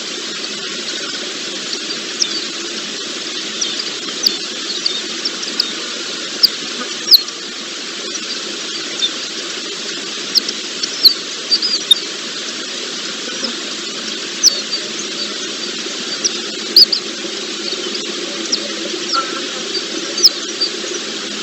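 Small birds giving short, sharp, high chirps, scattered irregularly and some much louder than others, over a steady hiss.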